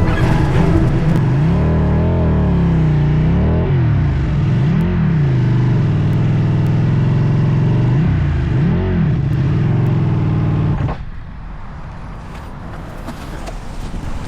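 Ducati motorcycle engine running, its pitch rising and falling with the throttle several times. About eleven seconds in the engine sound drops away, leaving quieter wind noise.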